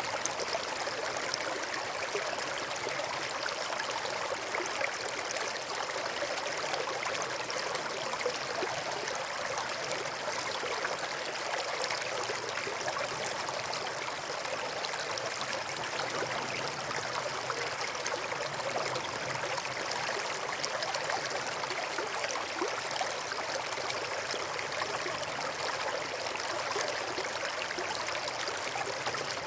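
Stream running over rocks: a steady, unbroken rush and trickle of flowing water.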